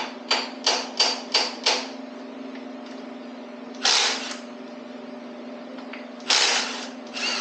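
Ratchet wrench working on the engine's rod-cap nuts: five quick ratcheting strokes about three a second, then two longer runs of clicking later on.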